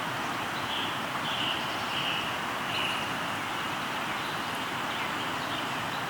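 River water flowing with a steady rushing sound, while a bird sings a phrase of four short notes, each a little lower than the one before, starting about a second in, followed by a few faint chirps.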